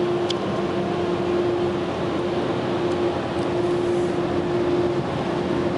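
Automatic car wash blower dryers running, a steady rush of air with a constant hum through it, heard from inside the car.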